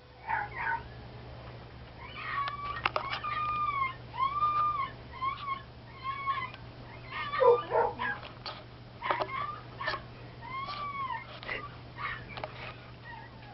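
Dog crying from separation anxiety: a run of short, high, arching whimpers and whines, one after another, with sharp clicks among them.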